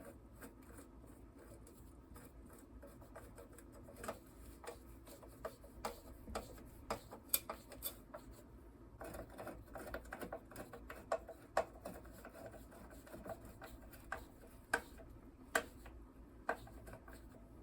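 Faint hand work on a small lawnmower engine: irregular light clicks and taps of metal parts and tools, with a stretch of scraping and rubbing about halfway through.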